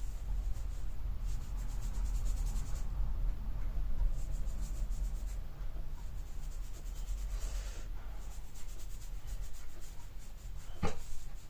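Scratchy strokes of paint being applied to a toy Thomas the Tank Engine, coming in several runs a second or two long, over a steady low hum. A single knock sounds near the end.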